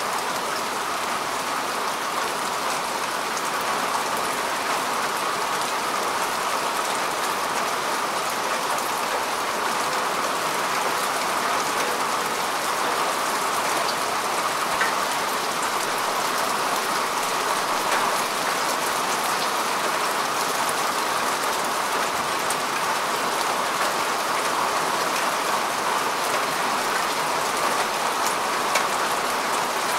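Steady rain falling on grass and earth, a constant hiss with fine patter of drops.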